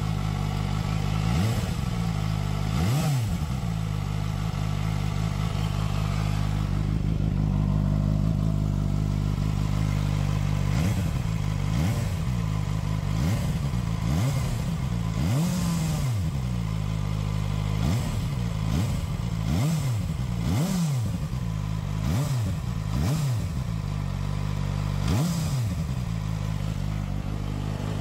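ZXMOTO 500RR motorcycle engine idling steadily, with repeated short throttle blips that rise and fall back, most of them in the second half. It is the engine after 1000 km run at 12000 rpm in second gear.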